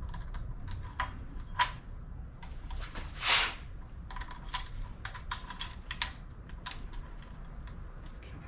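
Light metallic clicks and taps of a timing chain and cam sprocket being handled and fitted, with a short rasping noise about three seconds in.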